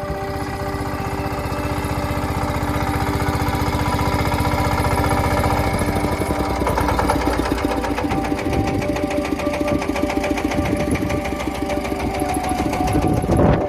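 A small engine running with a fast, even clatter, the beat becoming more pronounced about halfway through.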